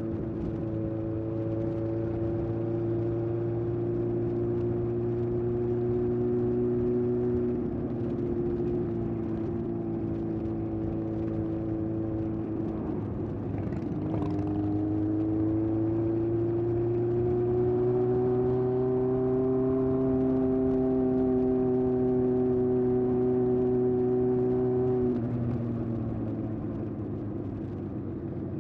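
Exhaust of a 1981 Honda CB750F's air-cooled inline-four through a Yoshimura exhaust, cruising at steady throttle. The note breaks briefly about halfway, then climbs gently, and falls away near the end as the throttle eases off.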